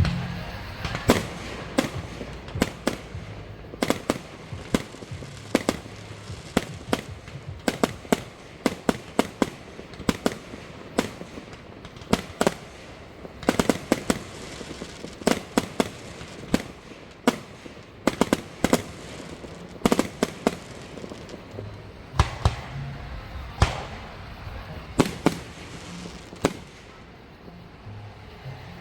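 Fireworks display: many sharp bangs and cracks going off irregularly, at times several a second.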